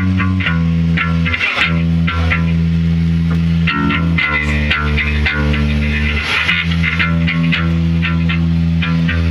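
A band playing loud rock with distorted electric guitar and bass. They hold low chords that change every second or so, over repeated drum hits.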